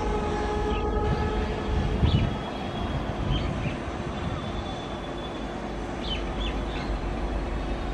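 Passenger train rolling slowly away on the track, a steady low rumble of wheels on rails with a louder low knock about two seconds in. A few short high chirps sound over it.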